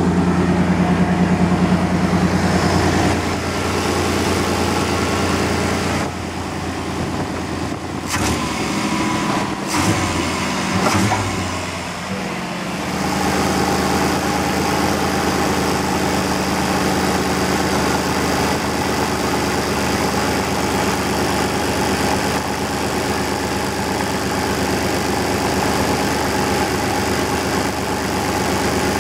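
Chevy truck's throttle-body-injected engine idling steadily under an open hood. Part way through, the running turns unsteady for several seconds with a few sharp knocks, then settles back to a steady idle.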